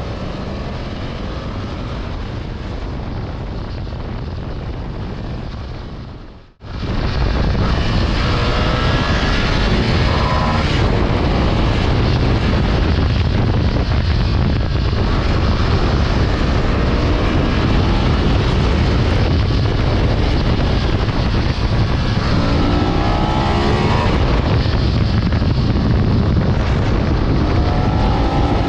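Motorcycle ridden hard at speed: steady engine and wind noise, louder after a brief drop about six seconds in, with the engine note climbing in pitch several times as it accelerates.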